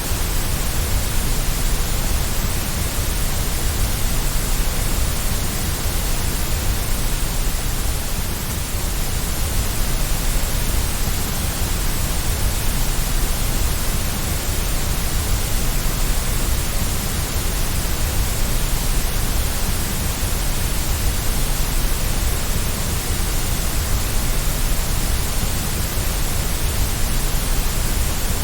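Steady white noise for soothing a baby to sleep: an even, unchanging hiss with a deep rumble underneath.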